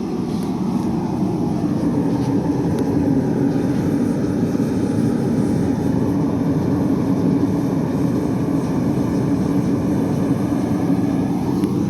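Rotating metal-working machine cutting steel, running with a steady low drone.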